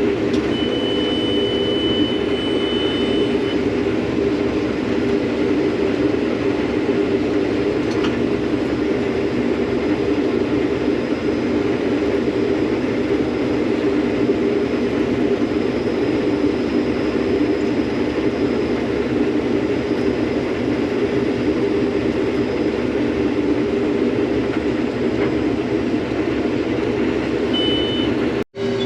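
Combine harvester's engine running steadily. A high steady tone sounds for about three seconds near the start and briefly again near the end.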